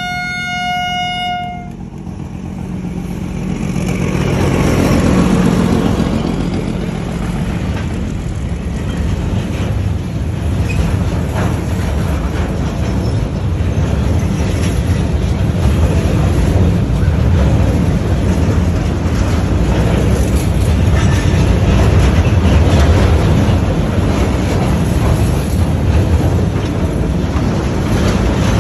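A freight train of tank containers rolling past at close range: a steady rumble with wheel clatter that builds over the first few seconds and then holds. A brief steady tone sounds at the very start.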